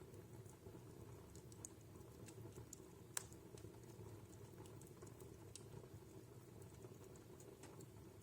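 Wood fire crackling in a fireplace: faint, scattered pops and ticks over a low steady rumble, with one sharper crack about three seconds in.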